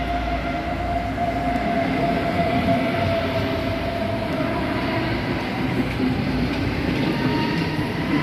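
Munich S-Bahn electric multiple unit moving along the platform: a steady rumble of wheels and running gear, with a steady electric motor whine that drifts slightly lower.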